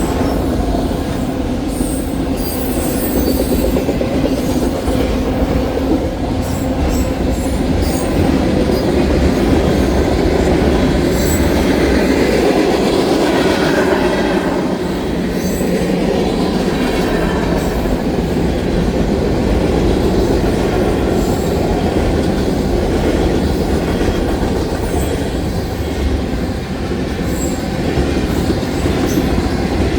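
Union Pacific freight train's cars rolling past, steel wheels clacking over the rail joints with some wheel squeal; the rumble swells a little partway through.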